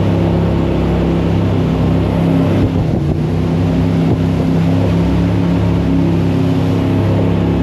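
Jet boat engine running hard at speed under a steady hiss. Its note dips briefly about three seconds in, then picks back up.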